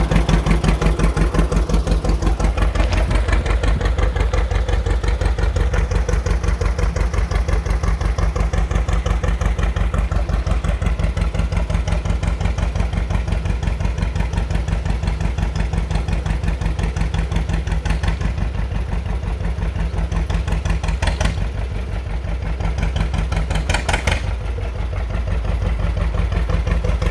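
Two-cylinder John Deere tractor engine running under way, its exhaust giving a steady, even beat of pulses.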